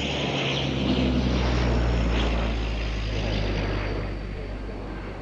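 Bombardier Dash 8 twin-turboprop airliner making a low pass, its propellers giving a steady low hum. It grows loudest about two seconds in, then fades as it moves away.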